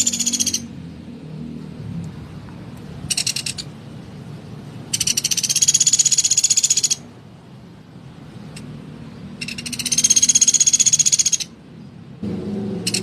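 Pelatuk beras woodpecker giving rapid rattling trill calls, harsh and high-pitched, repeated in bursts: one ending just after the start, a short one about three seconds in, two long ones of about two seconds each, and another starting at the very end.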